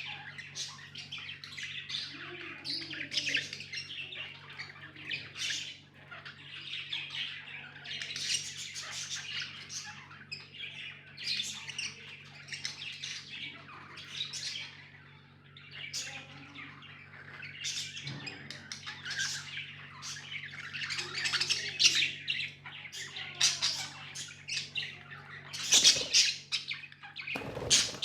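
Several pet budgerigars chirping and chattering without pause, with sharp squawks mixed in that grow louder near the end.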